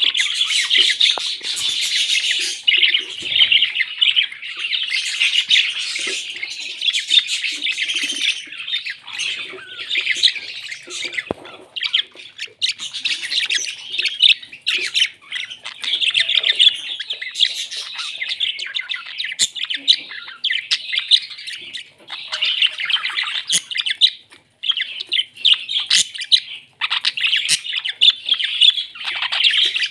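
Parrots chattering and squawking in a dense, nearly continuous stream of calls, with a few short pauses.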